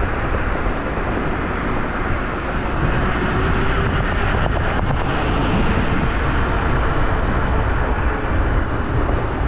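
Steady wind rush and road noise while riding an electric scooter along a path, loudest in the low range.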